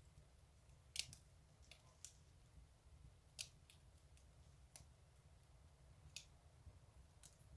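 Fireplace fire crackling: scattered sharp pops and snaps at irregular intervals, the loudest about a second in, over a faint low rumble.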